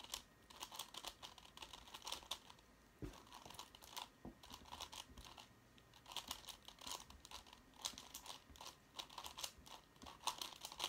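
Plastic twisty puzzle being turned by hand: quick runs of light clicking and clacking, broken by short pauses, notably about three seconds in and again about five and a half seconds in.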